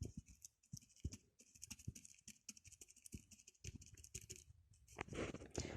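A paintbrush dabbing and scraping on paper and in paint, faint irregular little taps and brushing clicks.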